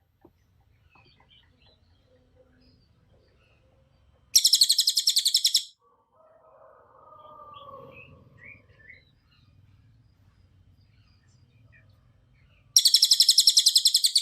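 Cililin songbird singing two loud bursts of rapid-fire, tightly packed high notes, each about a second and a half long: one about four seconds in and another near the end, with only faint soft sounds in between.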